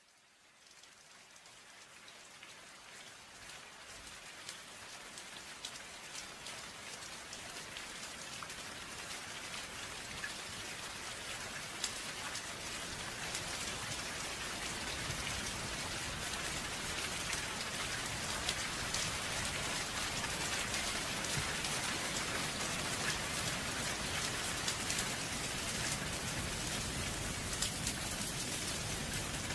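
Steady, gentle rain falling, with individual drops ticking through it. It fades in from silence and grows louder over roughly the first fourteen seconds, then holds at an even level.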